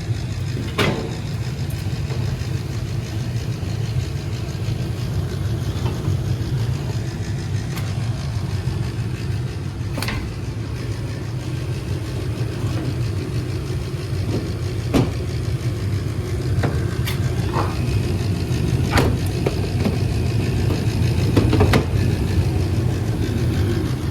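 Carrier 80 percent gas furnace running in its heating cycle, a steady low hum while the heat builds toward the temperature-rise reading. A few sharp clicks are scattered through it.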